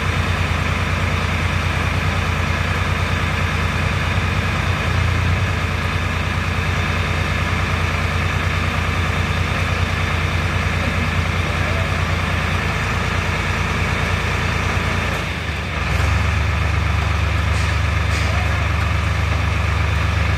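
Tractor engine running steadily with a low, even hum. About fifteen seconds in it dips briefly and settles into a slightly different note.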